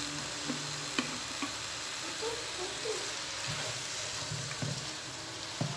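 Stir-fry of beef, vegetables and cabbage in sauce sizzling in a large non-stick pan while a silicone spatula stirs it, with a few light knocks of the spatula against the pan.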